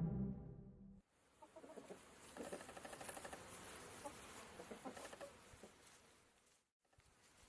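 A music hit fades out over the first second. Then come faint, short, clucking animal calls in quick clusters, which stop about six seconds in.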